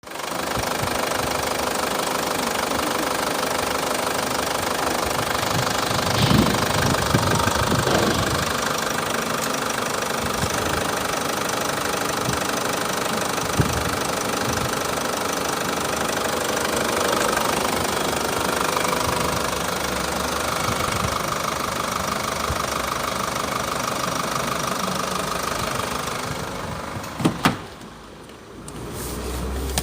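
Holden Cruze 2.0-litre engine idling steadily. Near the end it is switched off, with two sharp knocks as it stops.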